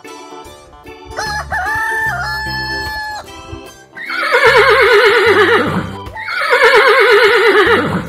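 Sound-effect rooster crowing in stepped, held notes, then two loud quavering animal calls that waver in pitch and fall away at the end, over children's background music.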